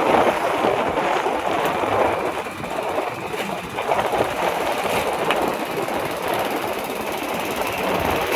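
Loud, steady road-traffic noise: heavy truck engines running and tyres on the road, with some rattling.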